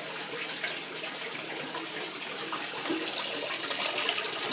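Steady running, splashing water from the aquarium cleaning.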